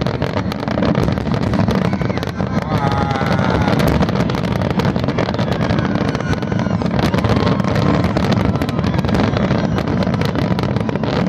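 Fireworks display: dense, rapid crackling pops over a steady low rumble.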